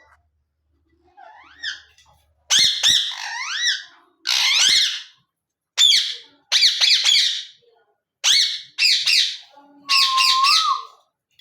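Pet parrots squawking: a string of loud, harsh calls, some sweeping up and down in pitch, beginning about two seconds in with short gaps between them.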